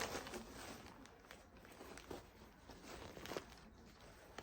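Faint, scattered rustles and soft taps of packaging being handled as a wig parcel is opened.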